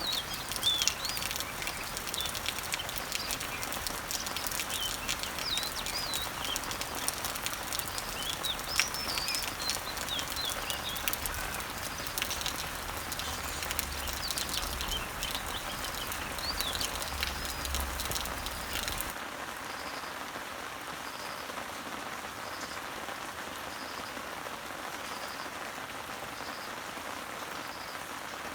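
Rain falling on leaves and trees: a steady patter with single drops, and birds chirping over it. About two-thirds of the way through, the sound changes abruptly to a softer, steadier rain hiss. The bird calls stop there, leaving only a faint high note repeating about once a second.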